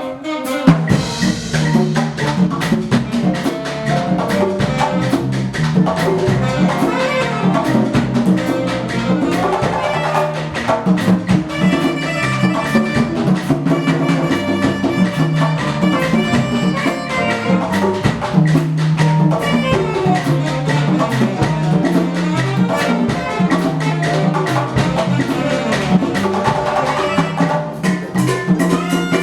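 Live Afro-Cuban ensemble music: hand drums and percussion keeping a salsa-style groove under a horn-like melody.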